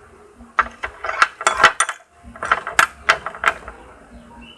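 A stirrer clicking and scraping against a container as glue-based slime is stirred after drops of activator go in, in irregular bursts of taps.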